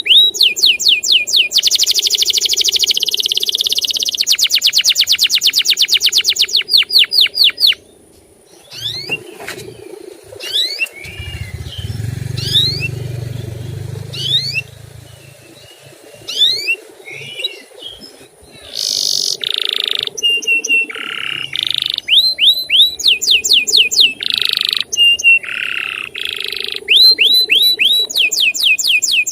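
Male canary singing: loud, fast trills of repeated falling notes. About eight seconds in the song drops to scattered single notes, with a low rumble underneath, then comes back with short trills and buzzy notes.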